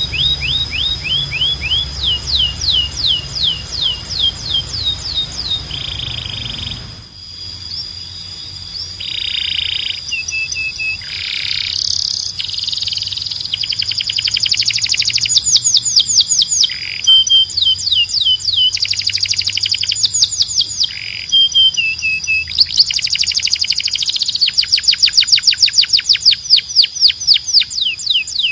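Domestic canary singing, a run of rapid trills and rolls made of quick falling whistled notes repeated many times a second, the phrase changing every second or two. About seven seconds in, the low background hum drops out, as at a join between two recordings, and the song goes on louder with fast rolls near the end.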